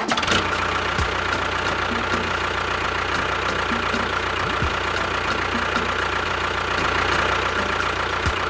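Small motor of a DIY mini construction vehicle running steadily, with a constant whine and a fast, even ticking.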